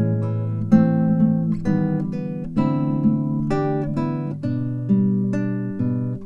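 Acoustic guitar music: plucked chords and notes ringing out one after another, each fading before the next.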